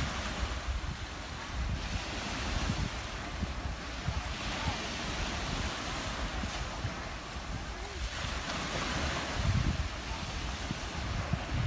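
Ocean waves washing onto a beach in a continuous hiss of surf, swelling about four seconds in and again near the end. Wind gusts rumble on the microphone.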